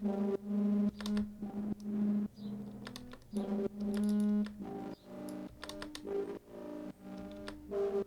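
Synthesized drum-and-bass 'foghorn' bass patch, a resonant, feedback-heavy tone, played as repeated held notes, mostly on one pitch, with a run of shorter notes at changing pitches in the second half. Sharp clicks sound between the notes.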